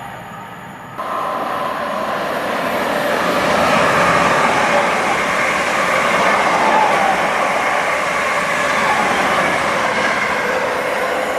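A train passing close by, a steady rush of wheel and rail noise. It starts abruptly about a second in, swells over the next few seconds and then stays loud.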